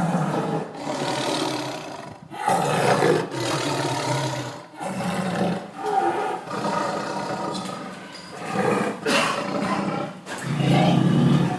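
A big cat roaring: a string of loud, rough calls, each lasting one to three seconds, with short breaks between them.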